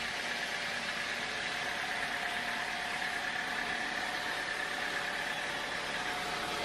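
A machine running steadily at an even speed, with a constant whine over a mechanical hum.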